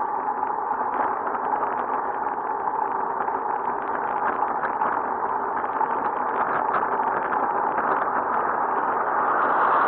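Steady wind and road noise from a bicycle ride at speed, heard on the rider's camera microphone, growing a little louder near the end.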